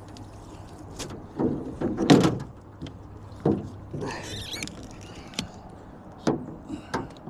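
A series of knocks and thumps against a small boat, about seven in all, the loudest about two seconds in, with a scraping rattle around four seconds in.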